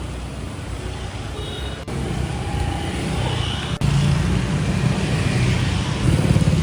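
Street traffic: a steady hum of vehicle engines and tyres going past, with the low rumble getting louder about four seconds in.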